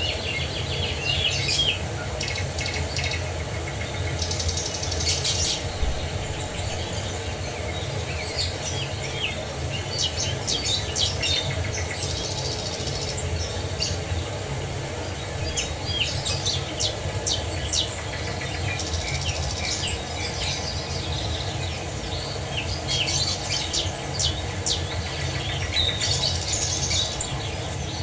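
Songbirds chirping and trilling in short repeated phrases over the steady rush of a waterfall.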